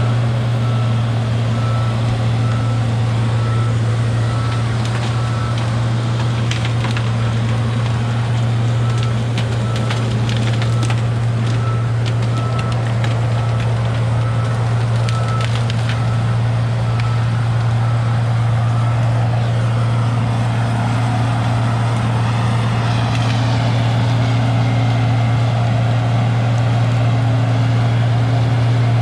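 Heavy diesel logging machine running steadily at a constant speed, with a repeating short beep through much of it and scattered sharp cracks and snaps in the middle.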